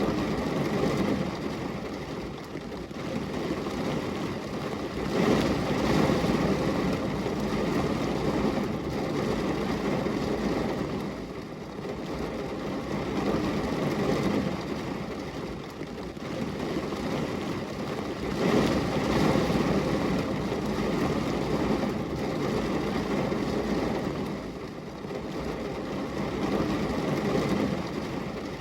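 Rain falling steadily: an even rushing noise, strongest in the low and middle range, that swells and eases every few seconds.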